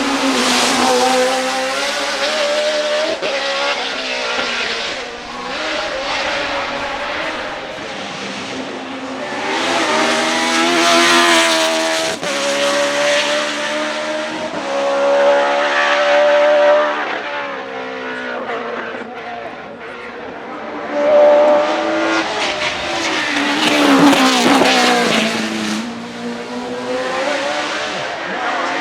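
Judd 3.4-litre V8 race engine of a BMW E36 hillclimb car at high revs. It climbs in pitch under hard acceleration and drops back at gear changes and lifts, several times over.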